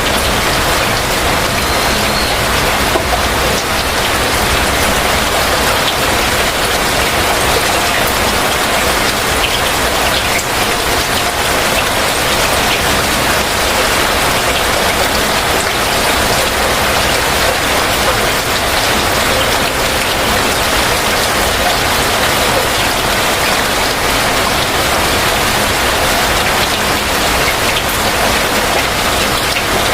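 Heavy rain falling steadily, a dense even hiss of drops striking surfaces, with scattered close drips.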